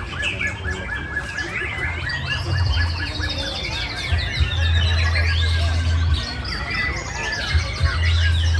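Many caged white-rumped shamas (murai batu) singing at once in a contest, their songs overlapping in a dense mix of whistles, chirps and sliding notes. A fast run of evenly repeated whistled notes stands out over the first two seconds or so, with a steady low hum underneath.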